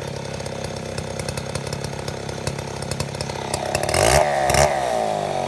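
Chainsaw engine running steadily, then revved up and down twice about four seconds in.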